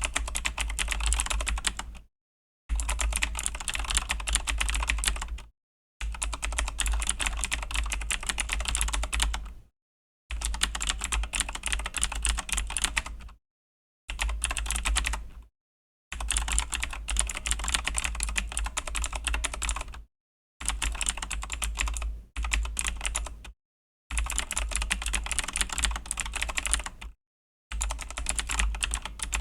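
Typing on a Razer BlackWidow V3 mechanical keyboard with Razer Green clicky switches: fast, continuous keystroke clatter in runs of a few seconds, broken by short gaps of complete silence about every two to four seconds.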